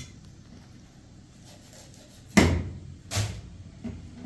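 Two sharp knocks a little under a second apart, the first the louder.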